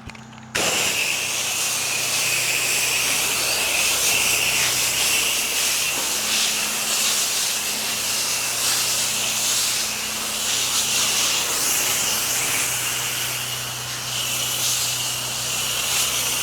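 Pressure washer spray wand jetting water: a loud, steady hiss of spray that starts suddenly about half a second in as the trigger is pulled, with a faint low machine hum underneath.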